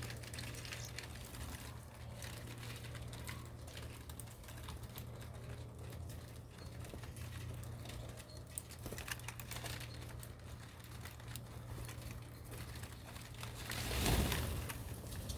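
Irregular light clicks and taps over a steady low hum, with a louder rustling swell about fourteen seconds in.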